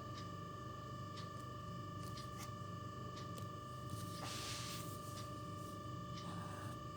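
Faint writing strokes and light taps of a pen while drawing, with a short scratchy stroke about four seconds in, over a steady high-pitched electrical whine.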